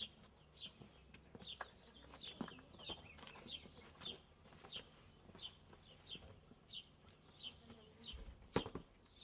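A small bird chirping over and over, short high falling chirps about one and a half a second, with a single thump near the end.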